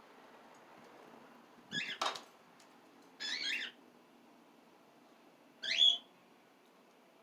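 Small pet parrots (cockatiels and a budgie) giving three short, wavering calls, the last one the loudest. A sharp click comes just after the first call.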